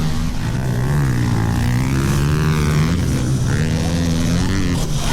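Small motorbike engines running, their pitch rising and falling as they rev.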